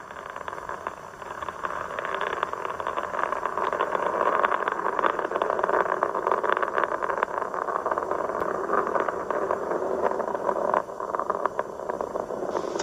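Space Shuttle Endeavour's solid rocket boosters and three main engines during ascent: a steady, crackling rocket rumble that grows a little louder over the first couple of seconds and dips briefly near the end.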